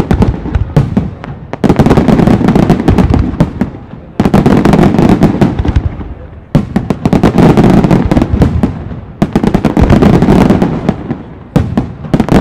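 Fireworks display: repeated volleys of rapid, dense bangs and crackling. Each volley starts abruptly and dies away over about two seconds, and a new one begins every two to two and a half seconds.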